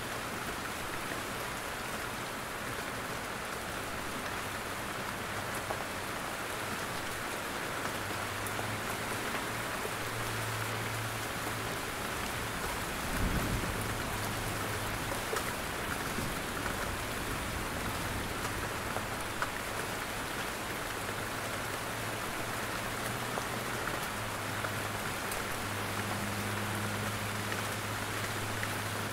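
Steady rain falling in a forest, a constant hiss with scattered single drops from the trees tapping through it. A brief low rumble comes about halfway through.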